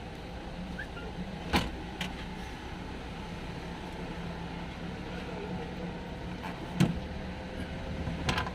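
A few short, sharp metallic clanks of hand tools and parts against the engine while a water pump is being fitted, over a steady low hum.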